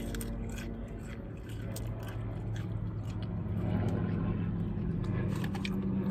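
Close-up chewing and crunching of fried popcorn shrimp, with small clicks and scrapes of fingers in paper food boxes, over a steady low hum.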